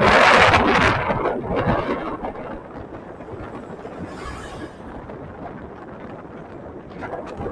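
Rushing wind and road noise from riding a motorcycle. It is loudest in the first second, then settles to a steadier, lower rush.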